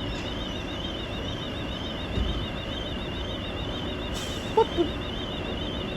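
Car alarm siren sounding, a steady warbling tone that wavers up and down two to three times a second. It was set off by opening the locked car with a blade pushed into the door lock instead of its key.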